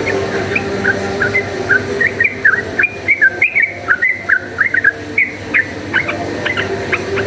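Yellow-vented bulbul (trucukan) singing a quick run of short, bubbling whistled notes, thickest and loudest in the middle of the stretch, over a faint steady low hum.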